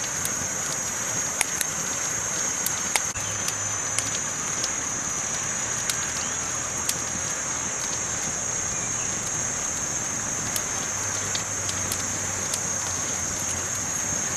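Campfire burning, with scattered sharp crackles and pops over a steady hiss.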